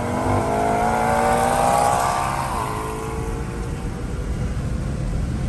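Car engine at full throttle in a roll race, its note rising steadily for about two and a half seconds, then dropping suddenly at an upshift. After that the engine sound fades into steady road and wind noise as the McLaren pulls away.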